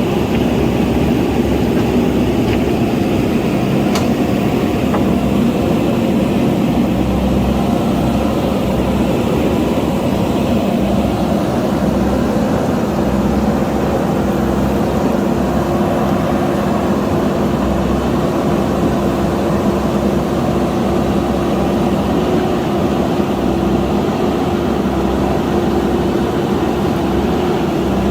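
JCB backhoe loader's diesel engine running steadily at an even pitch, with a single faint click about four seconds in.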